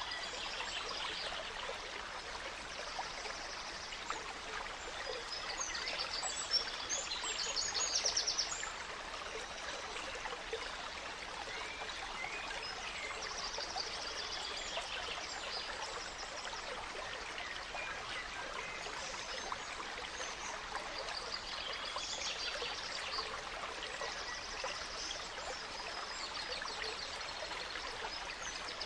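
A small stream babbling and trickling over stones, with songbirds singing repeated phrases of quick high notes over it. The birdsong is busiest in the first eight seconds or so.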